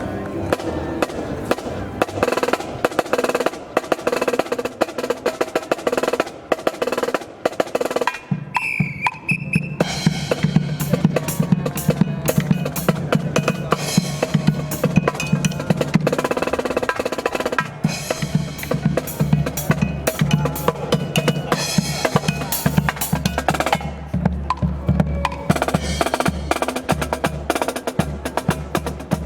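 Marching band percussion section playing a drum cadence: rapid snare drum rolls and strokes over steady bass drum beats, with wood block clicks.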